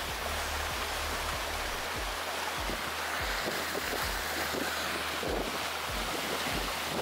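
Wind buffeting the microphone over the rush of water from a moving speedboat, with a low steady hum underneath.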